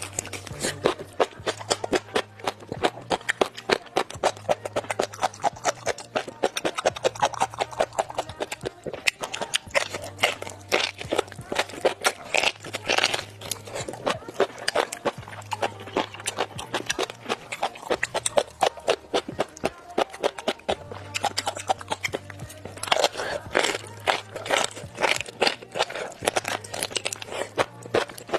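Rapid, crisp crunching of jellyfish skin being chewed close to the microphone, over background music.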